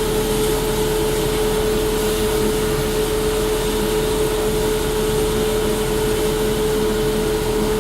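Steady rushing hiss of water pouring into a steam locomotive's tank from the water filler, with a constant whistle-like tone running through it.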